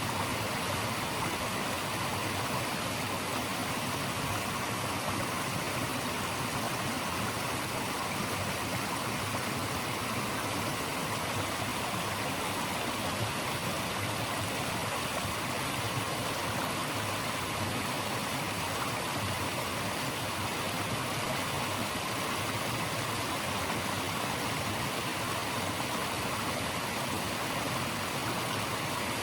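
Flowing water rushing steadily, an even hiss with no changes.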